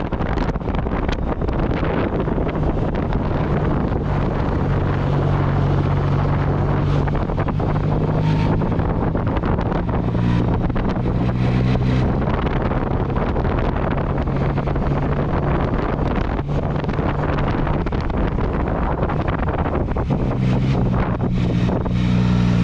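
Yamaha MT-09 Tracer's three-cylinder engine with an Akrapovic exhaust running under way, its note stepping up and down a few times, heard under heavy wind noise on the helmet-level camera microphone.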